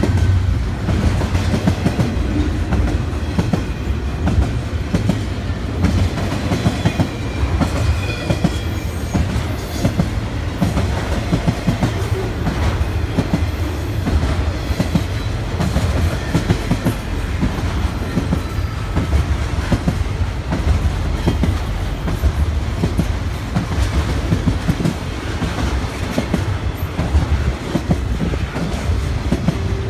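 BNSF intermodal freight train's container and trailer cars rolling past at speed: a steady low rumble with rapid clickety-clack of wheels over the rail joints.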